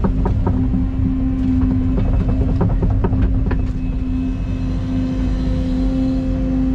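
Excavator running with a steady engine hum and drone. For the first three or four seconds a quick run of sharp clanks and rattles comes from the machine, then they die away and only the engine remains.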